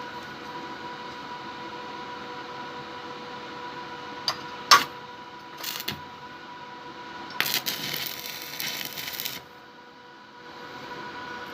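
Steady electrical hum of an arc welding machine. A stick electrode taps the metal twice, sharp and metallic, and the arc then strikes and crackles in two bursts: a brief one, then one lasting about two seconds that cuts off suddenly.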